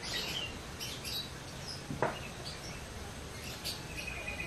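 Small birds chirping in short high calls over a steady low outdoor rumble, with one loud, quick note sliding sharply downward about two seconds in.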